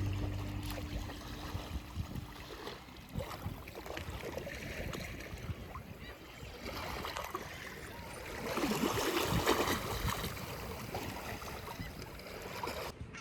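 Sea water lapping and splashing against the shore, an uneven wash with small splashes that swells louder about two-thirds of the way through.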